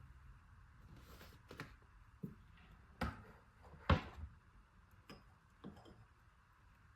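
A few light knocks and clicks of small objects being handled, the loudest about four seconds in, over a faint steady hiss.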